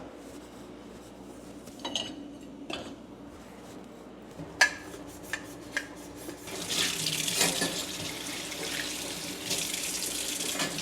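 A few light clicks and knocks, then water starts running about six and a half seconds in: a steady hiss of running water.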